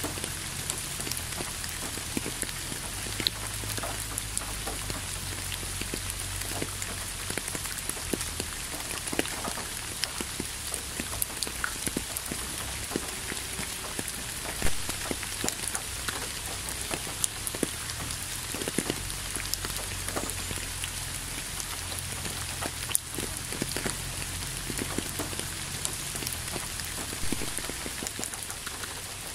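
Steady rain falling, with many separate drops striking close by and a low rumble underneath.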